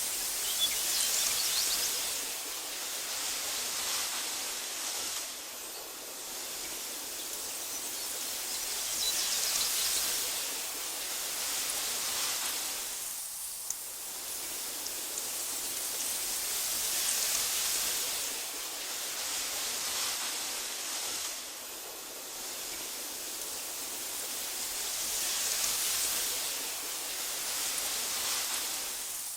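Wind blowing through tall meadow grass: a steady, airy hiss that swells and eases about every eight seconds.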